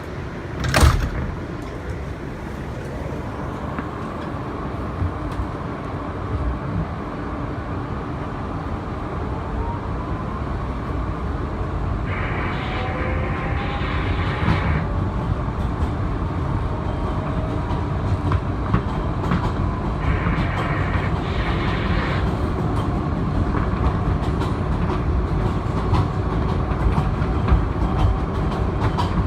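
R160B Siemens subway car heard from inside while running, with wheels clacking over rail joints and a faint whine from the traction motors rising in pitch. A loud thump comes about a second in, and the running noise builds steadily louder.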